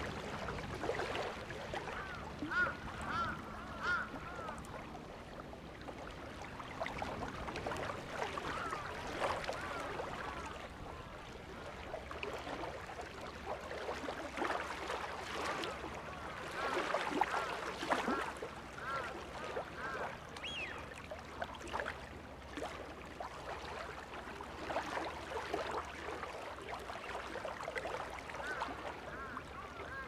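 Wild birds calling, short arched notes in irregular clusters, over a faint steady background hiss.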